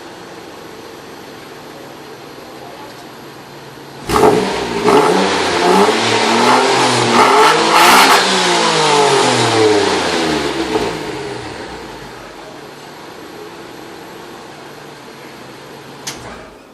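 Car engine idling through a Veilside aftermarket muffler, then revved several times from about four seconds in, its pitch rising and falling with each blip before dropping back to a steady idle. A brief sharp click near the end.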